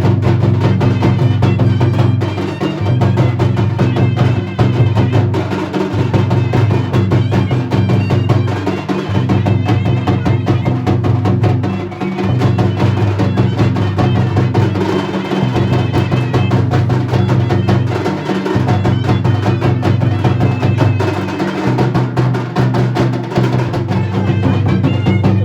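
Dhol and nagada drums playing a fast, continuous folk rhythm, with dense rapid strokes over a deep booming low note that recurs in stretches of two to three seconds.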